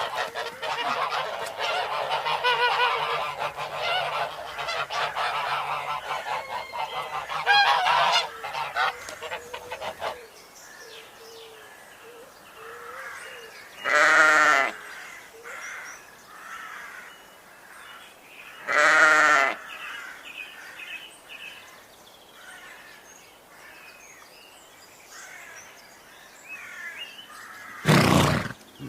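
A flock of geese honking and calling over one another for about ten seconds, then cutting off. Afterwards small birds chirp faintly, two long, loud calls come about five seconds apart, and another loud call sounds near the end.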